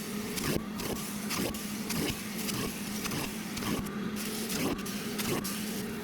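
A motorised cleaning tool runs steadily while it is worked over a cloth car seat, with a steady hum and a repeated swish about every half second to second as it is stroked back and forth.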